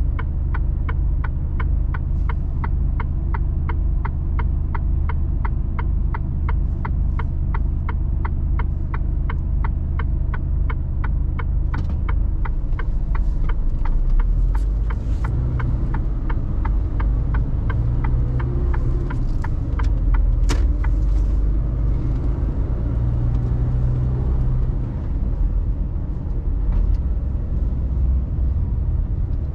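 Truck diesel engine running steadily inside the cab of a Mercedes Actros, with a turn-signal indicator ticking about three times a second. About twelve seconds in, the ticking stops and the engine note rises and varies as the truck pulls away, with one sharp brief sound about two-thirds of the way through.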